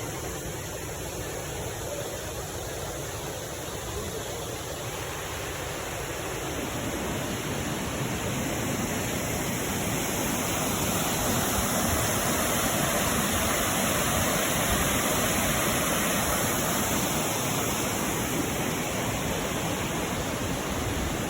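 Waterfall rushing as a steady, even noise with no distinct events, growing somewhat louder after the first several seconds.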